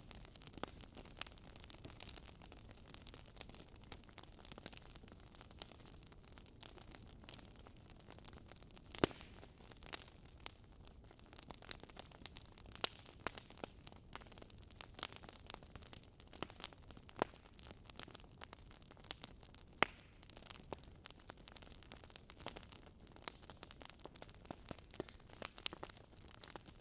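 Wood fire in a fireplace crackling, with irregular small pops over a soft low hiss and two louder snaps, about nine and twenty seconds in.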